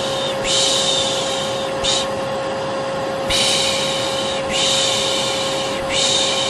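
Vacuum cleaner running with a steady hum, while a person makes long 'shh' shushing sounds over it for a baby. There are four long shushes of about a second each and one short one, in a lulling rhythm.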